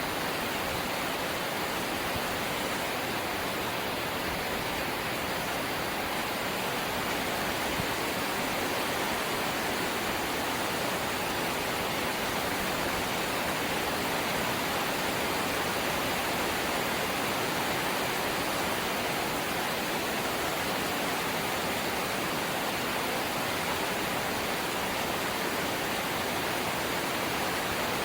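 Rain falling on a corrugated zinc (seng) house roof: a steady, even hiss without pauses or changes.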